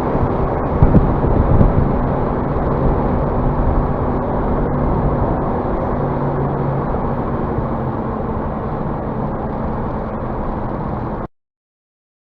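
Scania bus running, a steady engine hum under road noise, with a few heavier jolts about a second in. The sound cuts off suddenly near the end.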